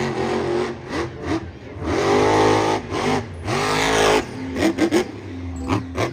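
Car engine revving sound effect, the pitch climbing in several rising revs.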